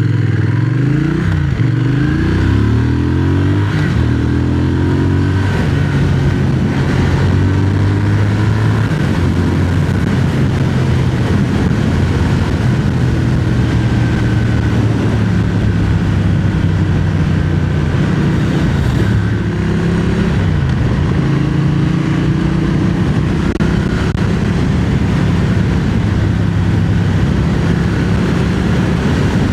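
Triumph Speed Twin 1200's parallel-twin engine pulling the bike along: it rises in pitch several times through the gears in the first few seconds, then runs at a steady cruise, with a brief drop and pick-up about two-thirds of the way through, over steady wind rush.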